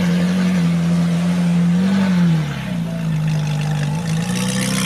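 Ferrari 458's V8 engine running steadily at raised revs. Its pitch rises slightly about two seconds in, then drops back.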